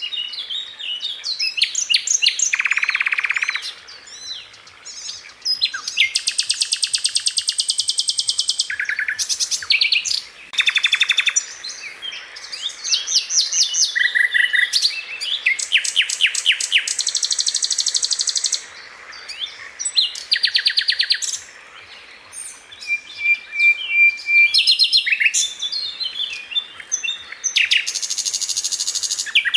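Sikatan londo flycatcher singing a fast, varied song of rapid trills and chattering bursts, separated by short pauses. The notes are delivered tightly in quick succession, the 'tembakan speed rapat' style valued for training other songbirds.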